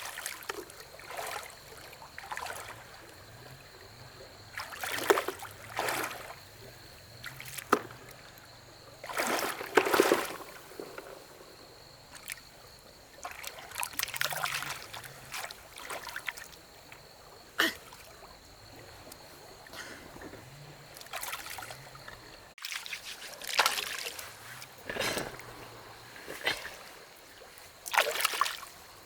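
Water splashing and trickling in irregular surges, with a few sharp knocks, and an abrupt cut about two-thirds of the way through.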